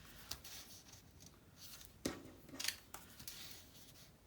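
Paper being handled and snipped with scissors: soft rustling with a few sharp clicks, the loudest about two seconds in.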